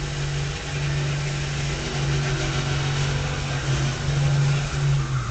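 Truck engines running hard during a side-by-side run down the drag strip: a loud, steady engine note with a few brief dips.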